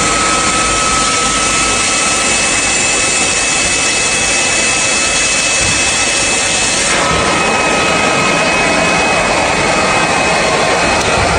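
A small electric motor running steadily: a loud, even rushing noise with a thin high whine on top.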